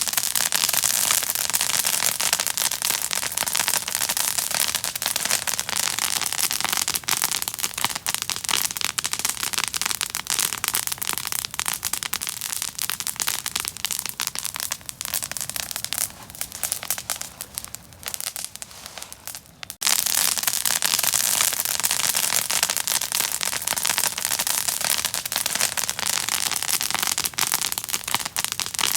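Open fire crackling with dense, rapid crackles. About two-thirds of the way through the crackling thins and fades, then comes back at full strength all at once.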